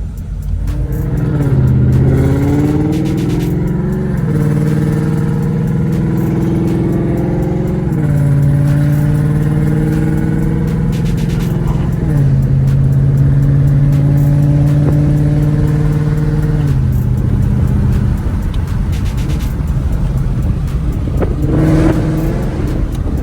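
2015 Mustang GT's 5.0 V8, fitted with catless long-tube headers, an H-pipe and Roush axle-back mufflers, running while the car is driven. The exhaust note holds steady for a few seconds at a time, rising briefly near the start and again about twelve seconds in, and drops in pitch in several steps.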